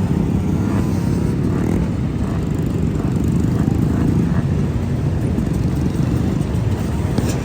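A group of motorcycles running past at steady low speed, a continuous mixed engine drone.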